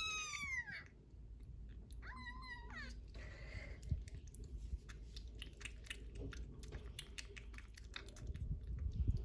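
A three-week-old kitten meowing twice in high cries that fall in pitch, once at the very start and again about two seconds in. These are the cries it makes when hungry. A run of many small clicks follows.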